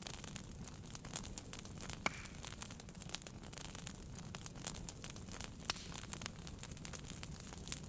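Wood fire burning in a fireplace: many small crackles and clicks over a steady low rumble of flame, with a sharper pop about two seconds in and another a little before the end.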